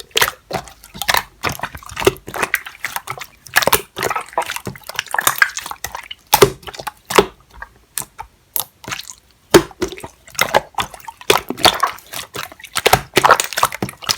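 Clear slime being squished and pressed by hand, making a fast, irregular run of wet clicks and pops.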